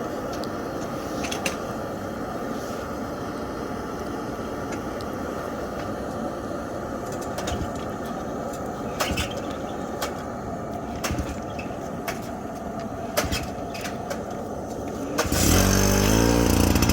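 Steady low rumble with scattered clicks. About fifteen seconds in, a small petrol engine, the generator just filled with petrol for the work lights, starts up loud and keeps running.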